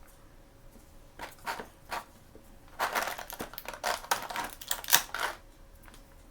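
Packaging crinkling as it is handled by hand: a few short rustles, then about two and a half seconds of dense crinkling.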